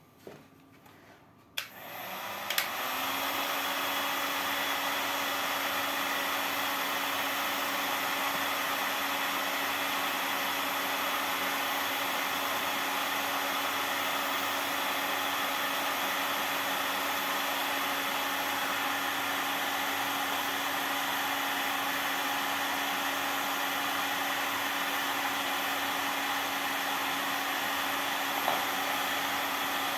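Electric hot-air blower switched on about a second and a half in, spinning up over about a second, then blowing steadily with an even motor hum while heating a plastic lid.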